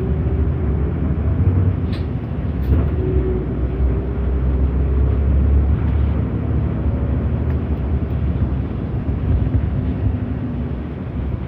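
City bus running on the road, heard from inside: a steady low rumble of engine and tyres with a faint steady engine tone. Short clicks or rattles come about two seconds in.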